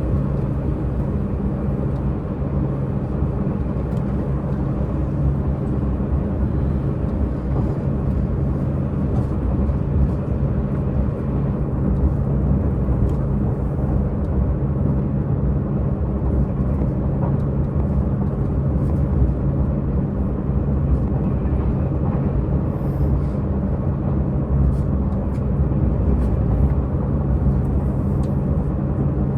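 Diesel engine of a Tze-Chiang diesel multiple unit running steadily under power, heard from inside the carriage. It is a constant, even drone with steady pitch, mixed with running noise.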